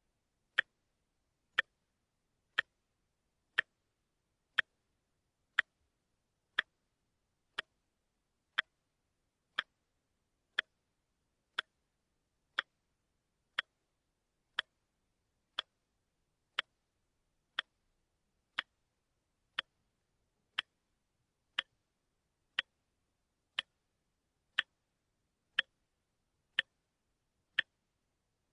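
Watch ticking steadily, one sharp tick each second with silence between.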